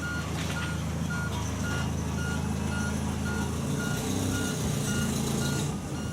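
A vehicle's reversing alarm beeping steadily, about two beeps a second, over running tractor engines whose pitch shifts about two-thirds of the way through.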